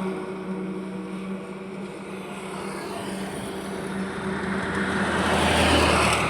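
Highway traffic: a vehicle that has just gone by fades away at the start, then another vehicle's tyre and engine noise swells as it approaches and passes, loudest near the end. A steady low engine hum runs underneath.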